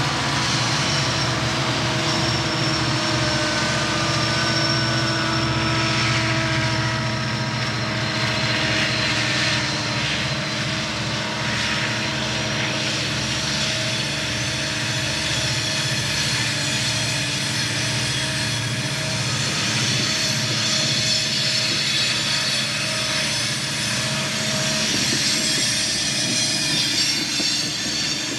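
Freight train passing close by: Cotton Belt and Southern Pacific diesel locomotives running with a steady engine drone, then tank cars rolling past with rail and wheel noise and a thin, high wheel squeal toward the end.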